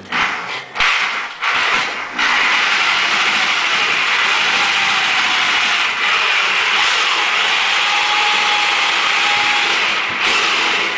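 A power saw cutting along a marked line through moisture-resistant drywall. A few short starts come first, then about two seconds in it settles into a steady, loud, hissing cut.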